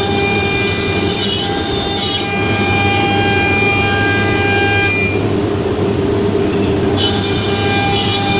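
CNC router running, its spindle giving a steady high whine over a low machine hum. The high-pitched part thins out for about two seconds in the middle, and there are a few short pitch glides near the start and end.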